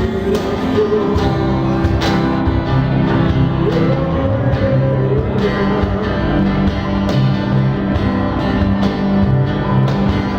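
Acoustic band playing live: strummed acoustic guitars with cajón percussion strokes.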